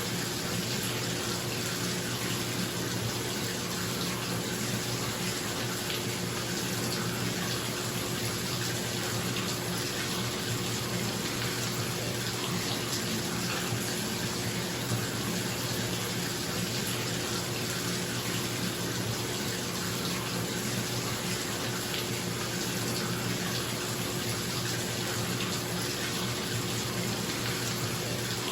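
Bathtub tap running steadily into the tub, a constant rush of water, with a bathroom exhaust fan humming underneath.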